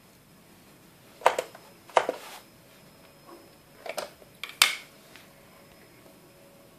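Four sharp clacks of hard objects being handled, in two pairs about two seconds apart, each with a short ringing tail.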